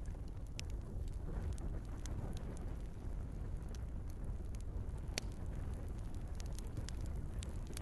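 Wood fire burning in a fireplace: a steady low rumble of flames with irregular sharp crackles and pops from the logs, one louder pop about five seconds in.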